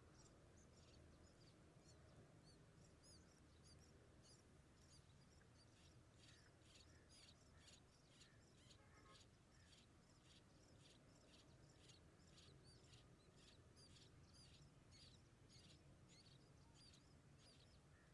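Faint, high-pitched cheeping of nestling birds. The short chirps repeat about three times a second and grow denser after about six seconds, over a faint low hum.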